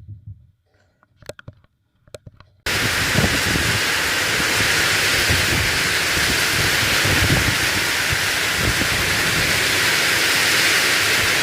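A couple of faint clicks, then about two and a half seconds in a loud, steady hiss of heavy rain starts abruptly and keeps going.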